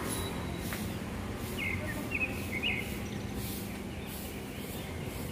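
A bird chirping, three short calls in quick succession about two seconds in, over a steady low background hum.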